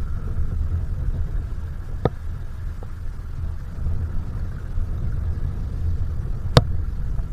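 Boat motor running with a steady low rumble, a light knock about two seconds in and a sharp, louder knock about six and a half seconds in.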